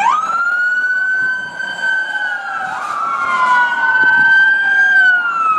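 Toy police car's electronic siren: two wailing tones that glide slowly up and down, one rising while the other falls, so they keep crossing.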